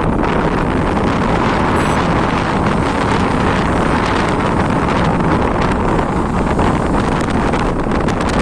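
Strong wind blowing over the microphone: a loud, steady rushing and buffeting with no let-up.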